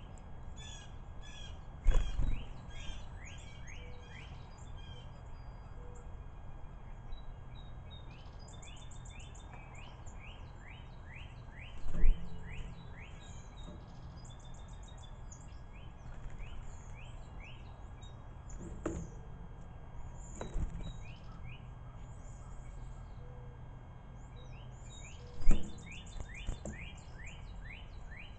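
Songbirds singing and chirping: runs of quick falling whistles repeat again and again, with thin high chirps above them. Five loud thumps break in, the loudest about twelve and twenty-five seconds in.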